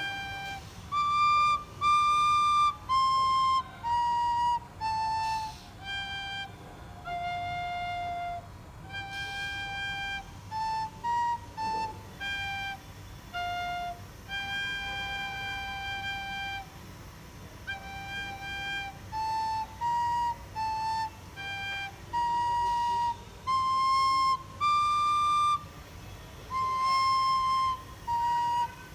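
Recorder playing a solo melody: a single line of clear, separate notes, moving up and down within a narrow range, with short breaths between phrases.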